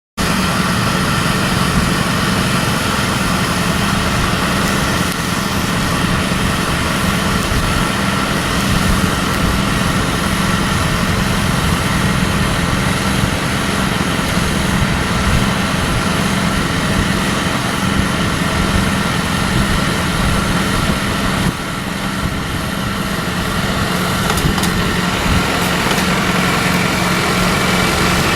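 An engine or motor running steadily with a constant low hum, dipping briefly about three quarters of the way through.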